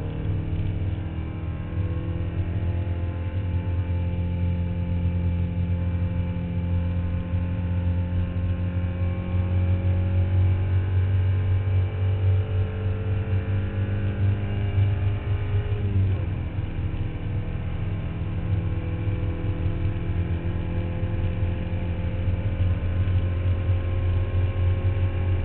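Porsche 944 Cup race car's four-cylinder engine running hard on track, heard from inside the car over a steady low drone. Its pitch climbs slowly for about fifteen seconds, drops sharply once, then holds and rises again.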